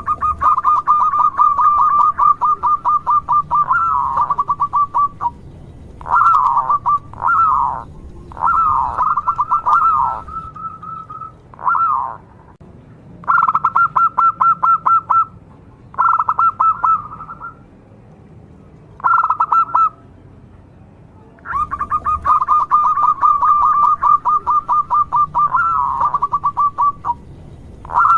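Local zebra dove (perkutut) cooing: long runs of quick, evenly repeated notes, at the start and again from about two-thirds of the way in, with shorter coo phrases and brief pauses between them.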